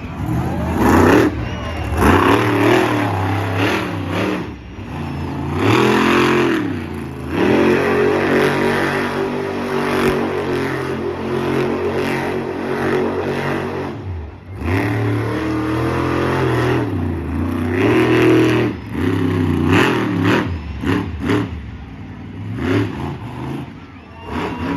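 Raminator monster truck's engine revving hard through a freestyle run, its pitch climbing and falling again and again, with a long stretch held at high revs in the middle.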